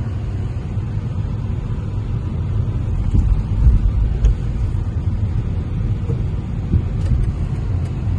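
Road and engine noise heard from inside a moving car: a steady low rumble that swells a little about halfway through.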